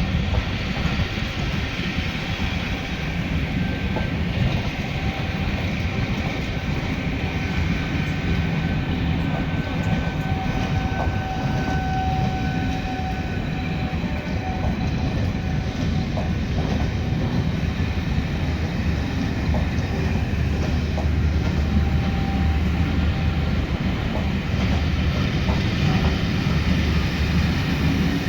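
A locomotive-hauled railtour train passing, with a steady rumble and the clatter of wheels over rail joints, growing a little louder after about twenty seconds.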